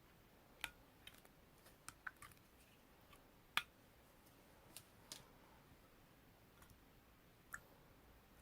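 Marbled slime being handled, giving scattered sharp clicks and pops at irregular intervals, about nine in all. The loudest comes near the middle.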